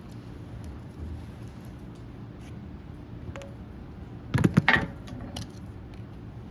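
Hands and tools working a tight rubber seal into a hydraulic cylinder part: quiet handling and scraping with a few light ticks, and a brief cluster of sharp clicks and knocks about four and a half seconds in.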